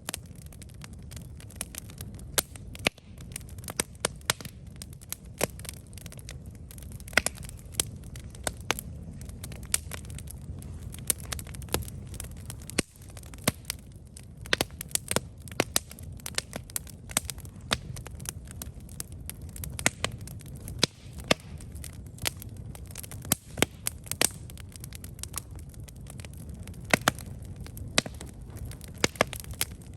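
Campfire crackling and popping: sharp irregular snaps from burning wood over a steady low rumble.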